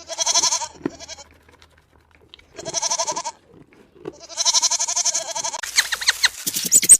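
A goat bleating three times, each bleat a quavering call, the third the longest. Near the end a quicker run of short, sharp calls follows.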